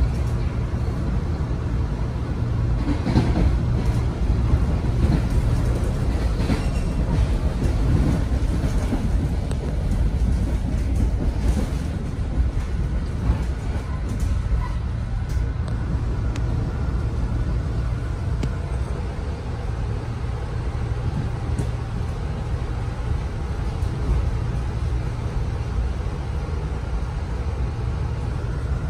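M3A electric multiple-unit train car running at speed, heard from inside the passenger car: a steady low rumble of the car on the rails, with a few brief knocks in the first dozen seconds.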